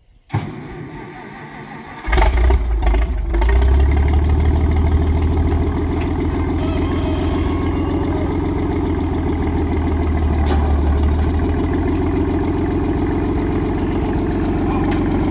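Tractor engine cranking and catching about two seconds in, then running steadily.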